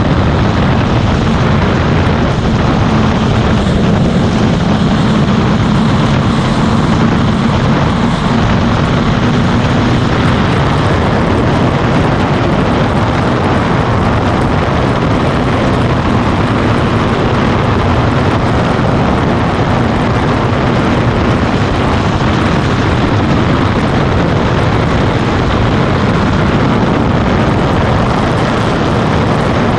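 Motorcycle running at steady road speed under loud, steady wind rush on the microphone; a faint engine hum can be made out under the wind for about the first ten seconds.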